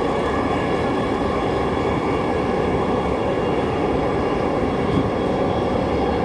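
Steady running noise heard from inside a Dhaka Metro Rail (MRT Line 6) train car moving between stations. It is an even rumble with a faint high steady whine above it.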